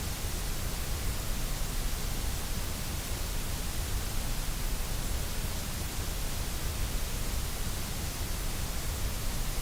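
Steady electronically generated white noise, an even, unchanging hiss with no events in it.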